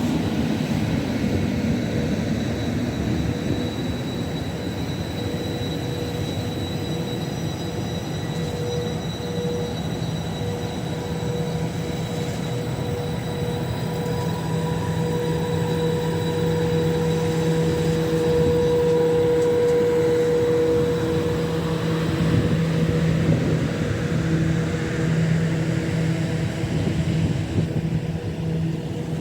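Train running through a station: a steady rumble with several held humming tones that swell somewhat in the middle.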